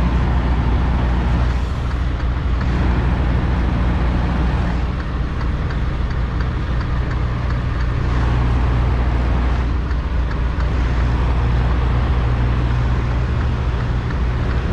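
Semi-truck diesel engine running steadily at low revs while the tractor-trailer reverses into a parking spot.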